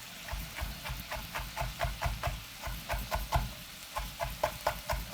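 Kitchen knife chopping spring onions on a cutting board in quick, even strokes, about four a second, with a brief pause about three and a half seconds in.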